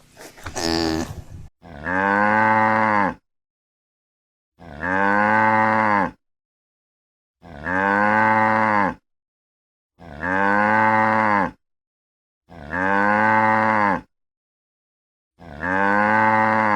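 A cow mooing: the same drawn-out moo of about a second and a half, repeated six times at even spacing with dead silence between.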